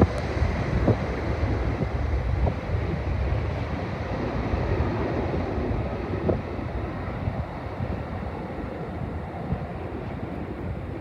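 Boeing 767 jet engines rumbling and slowly fading as the plane climbs away after takeoff, with wind buffeting the microphone.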